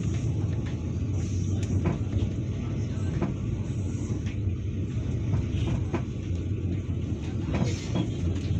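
Passenger train running along the track, heard from inside the carriage: a steady low rumble with occasional sharp clicks.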